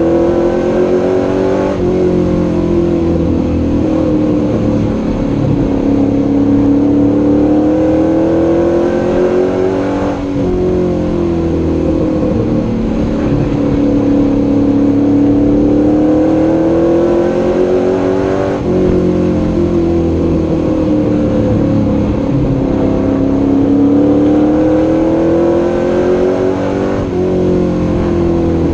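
Superstock pro truck's engine heard from inside the cab at racing speed, its pitch sinking and climbing again in a repeating cycle about every eight seconds as the driver lifts for the turns and accelerates down the straights of a short oval.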